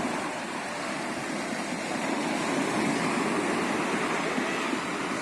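Mediterranean sea waves washing onto the shore: a steady surf hiss that swells a little in the middle.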